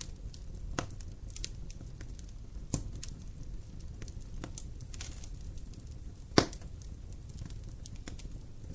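Wood fire in a fireplace crackling: a low steady rumble with scattered sharp pops, the loudest about six seconds in.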